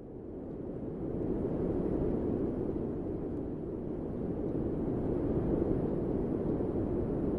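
Steady low rushing noise with no tone or rhythm, growing louder over the first second or so and then holding.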